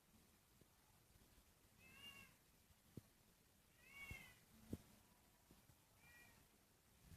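Domestic cat meowing faintly three times: short, high calls about two seconds apart, with a few soft clicks between them.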